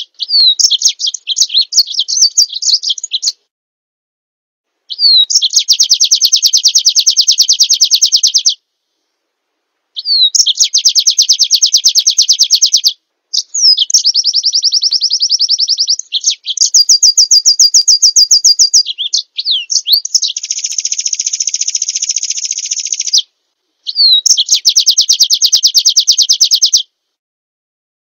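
Songbird song in the pleci (white-eye) masteran style. Each phrase is a short down-slurred note followed by a fast, even trill lasting about three seconds. The phrases repeat with brief silent gaps, and a few in the middle differ: a slower trill, then a buzzy trill.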